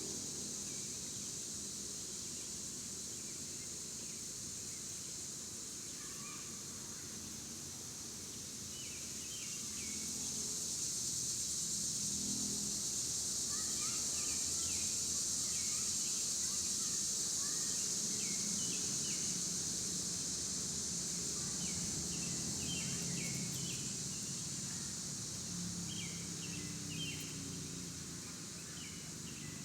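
Outdoor ambience: a steady high-pitched insect drone that swells about a third of the way in, with short bird chirps coming in quick clusters from time to time.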